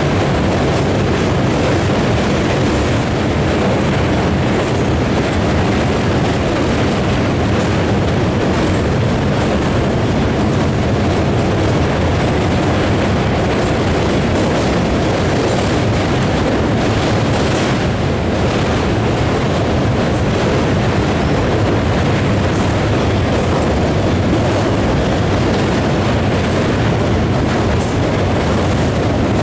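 Moving passenger train heard from aboard: a steady, loud rumble and rattle of the wheels running on the track, with faint short clicks now and then.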